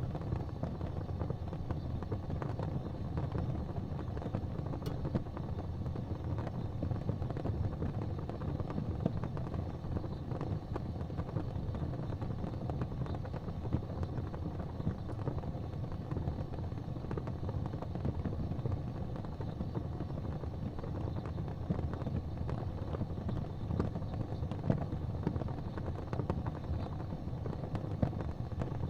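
Crackling wood fire in a fireplace: a steady low rumble of flames with frequent small crackles and a few louder pops.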